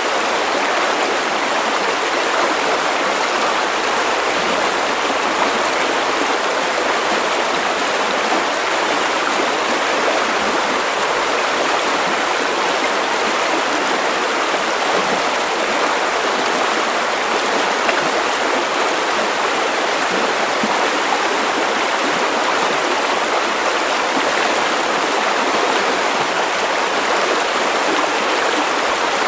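River water running over stones: a steady, unbroken rushing babble.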